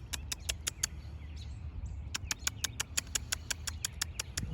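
A person calling a cat with quick, evenly repeated squeaky mouth sounds, about six a second, in two runs with a short break about a second in. A low rumble of wind sits underneath.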